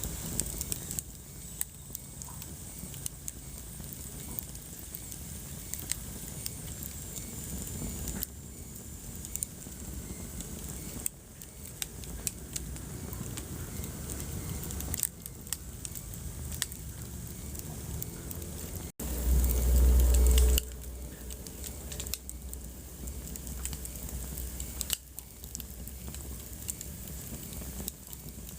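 Wood fire burning in a fireplace: a steady low rumble of flames with frequent small crackles and pops. About two-thirds of the way through, the sound cuts out for an instant and then a louder low rumble lasts about a second and a half.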